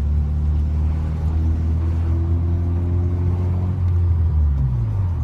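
Car engine running steadily while the car is driven, a low drone, with the revs falling near the end.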